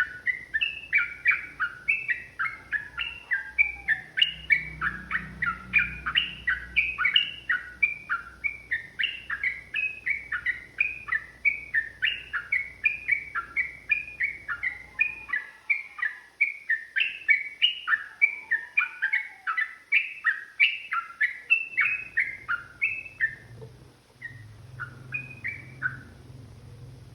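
Sooty-headed bulbul (trucukan) singing a long, rapid unbroken run of repeated chirping notes, about three a second, thinning to a few scattered notes near the end.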